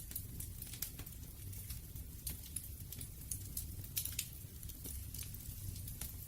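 Wood fire burning: irregular sharp crackles and pops over a steady low rumble of flame.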